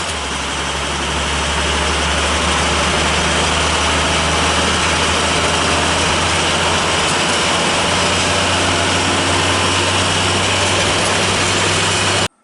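Vehicle engine running steadily with a strong low hum under an even rush of noise. It cuts off abruptly near the end.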